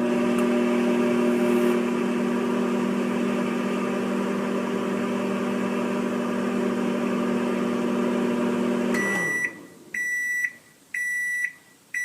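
Microwave oven running with a steady hum that winds down about nine seconds in, followed by its high end-of-cycle beeps, about one a second.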